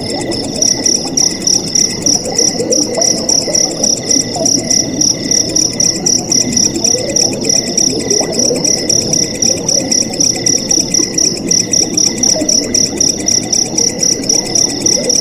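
Crickets chirping in a steady rhythm, about three pulses a second, with a second, lower cricket chirring alongside, over the even rush of flowing water.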